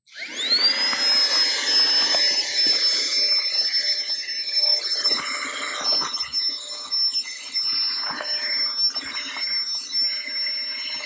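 Small electric air pump switching on and spinning up with a rising whine, then running steadily with a high whine as it inflates a sleeping mat, with rustling and handling knocks over it.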